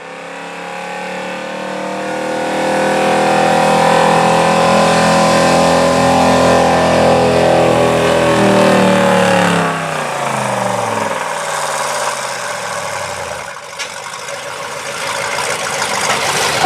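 1977 Ford F-350 pickup's engine working under full load while pulling a sled: the revs climb over the first few seconds, hold high for several seconds, then fall away over several seconds as the pull ends.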